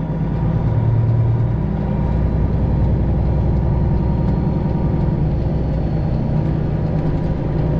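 Semi truck's Detroit Diesel 12.7-litre engine running steadily with a low hum.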